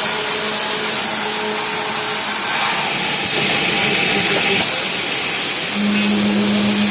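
CNC slotting and tapping machine working an aluminium profile: steady mechanical noise with a high whine that stops about two and a half seconds in, and a lower hum that starts near the end.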